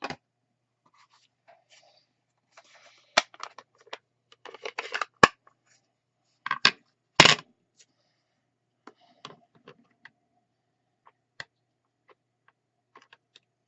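Hard plastic clicks and light scrapes as a stamp pad is opened and a clear acrylic block with a stamp mounted on it is tapped and rubbed on the pad to ink it. There are a few sharp clicks about 3, 5 and 7 seconds in, then scattered fainter ticks.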